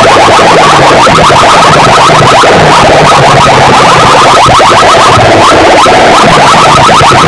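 DJ sound-system speakers blasting a competition track at full volume, badly overloaded: a fast stream of short falling electronic chirps, many a second, over a low pulsing bass line.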